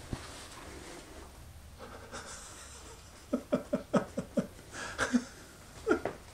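A person making short breathy vocal sounds: a quick run of about six huffs a little past the middle, then two more near the end.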